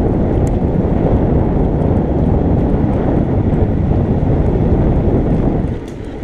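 Heavy wind rushing over the microphone of a moving electric motorbike, mixed with a low road rumble, with no engine note. It eases off a little near the end.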